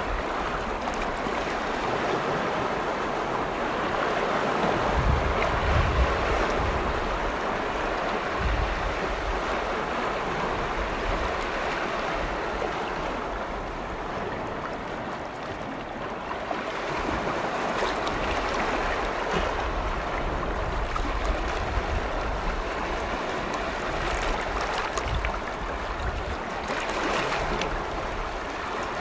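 Waves on Lake Vänern washing in, a continuous rushing that swells and eases every few seconds. Gusts of wind rumble on the microphone now and then.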